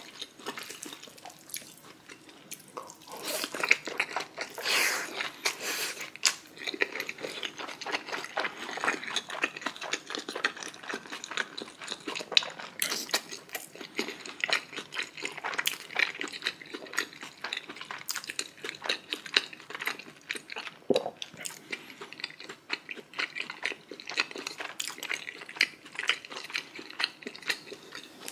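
Close-up wet chewing and mouth sounds of a person eating, a dense run of irregular small smacks and clicks.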